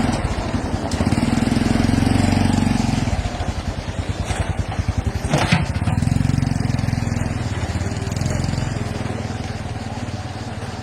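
A vehicle engine running, growing louder twice as it speeds up, with a single sharp click about halfway through.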